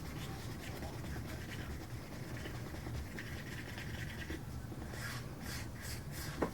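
A stir stick scraping around the inside of a mixing cup of paint-tinted epoxy resin: soft repeated scratching strokes that come thicker near the end, over a low steady hum.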